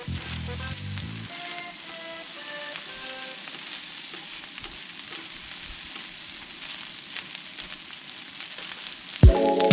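Food sizzling steadily in a hot pan as it fries, under background music that turns louder with a beat near the end.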